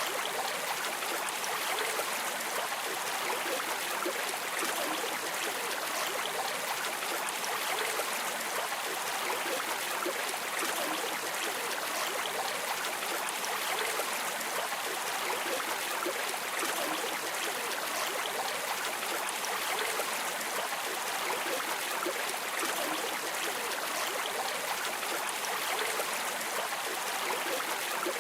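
A river or stream flowing and rushing steadily, a dense, even hiss of moving water with fine splashing texture.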